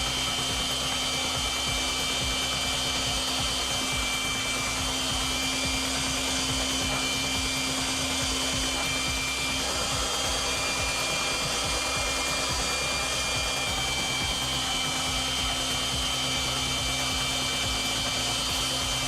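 Electric air blower running steadily, inflating a giant balloon, a constant rush of air with a steady high whine.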